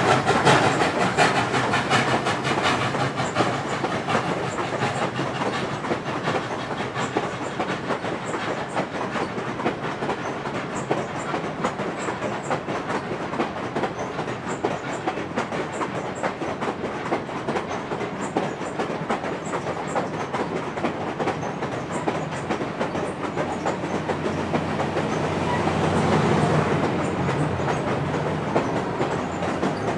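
Passenger coaches of a train rolling past, their wheels clicking steadily over rail joints. Near the end a diesel locomotive at the rear of the train passes, and its engine grows louder.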